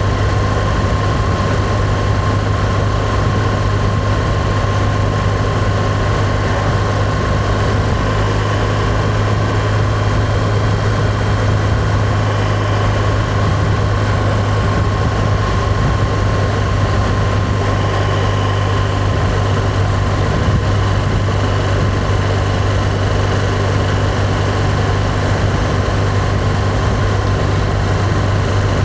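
Motorcycle engine running at a steady cruise with road noise, its pitch and loudness holding even throughout.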